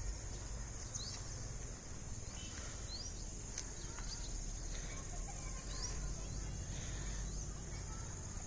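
Outdoor ambience: a steady high-pitched insect drone with scattered short bird chirps, over a low rumble.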